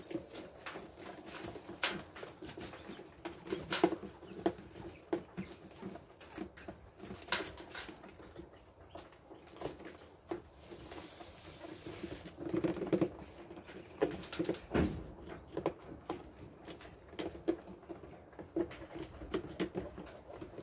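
A group of young birds in a brooder making soft, low, repeated calls, with scattered clicks and scratches of the birds moving and pecking in wood shavings.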